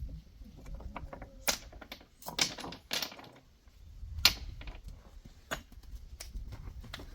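A series of irregular sharp clicks and knocks, like hard objects striking one another, the loudest about four seconds in, over a low rumble.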